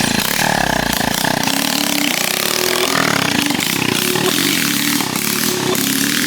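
Dirt bike engine running loud, its pitch rising and falling as the throttle is worked.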